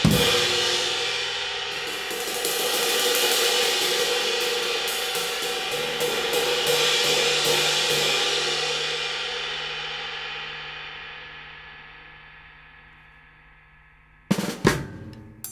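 A 20-inch hand-made B20 bronze trash crash, light weight, struck over and over with its bright, trashy wash building up. It then rings out on its own and fades away over several seconds. A couple of loud sharp hits come near the end.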